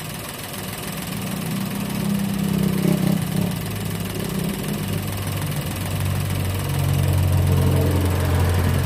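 Toyota Wigo engine running at idle; its hum drops in pitch and grows a little louder about halfway through. The engine has a cylinder 1 misfire code, traced to an ignition coil that looks melted.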